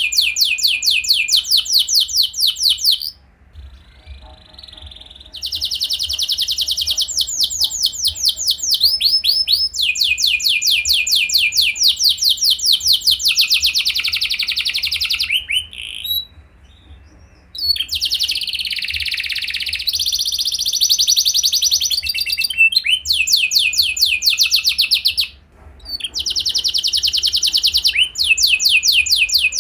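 Domestic canary singing a long song of fast, rapidly repeated trills, the phrases switching from one trill to the next. It breaks off briefly three times.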